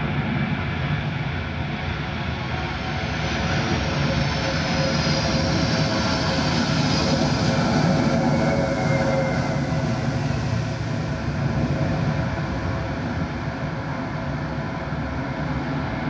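Jet airliner passing close by. A dense engine rumble carries a high turbine whine that falls in pitch as it goes past, loudest in the middle.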